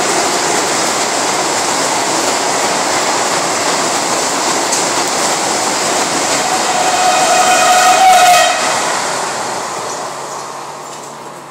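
Vande Bharat Express electric trainset running past at speed, a steady rush of wheels and air. A train horn sounds for about two seconds, about two-thirds of the way through, and is the loudest moment. The noise then fades as the train draws away.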